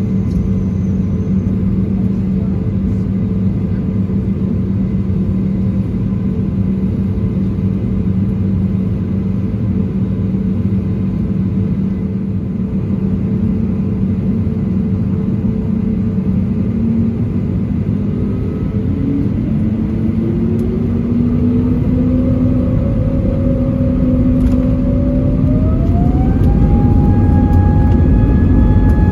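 Steady cabin hum from the Airbus A320neo's CFM LEAP-1A turbofans. About two-thirds of the way in, the engine whine rises in two steps and grows louder as thrust is set for takeoff.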